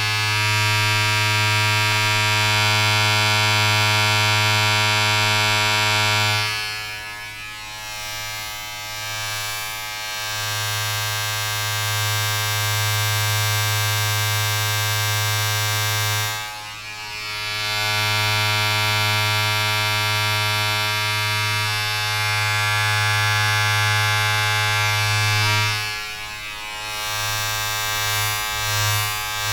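An electric appliance buzzing steadily, a low hum with many overtones. It drops away and shifts three times, briefly each time.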